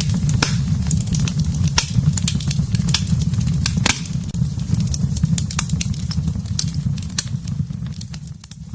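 Fire burning in a fireplace: a steady low rumble of flames with frequent sharp crackles and pops. The rumble dips briefly near the end.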